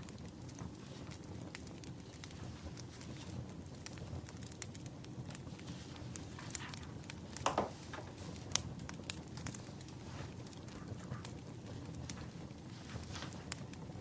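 Burning firewood crackling with irregular sharp pops over a steady low rush of the fire, one pop louder than the rest about halfway through.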